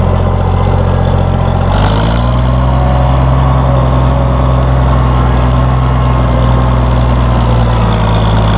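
1966 Oliver 1650 tractor's six-cylinder gasoline engine running steadily. Its speed rises about two seconds in, then holds at the higher speed and eases off slightly near the end.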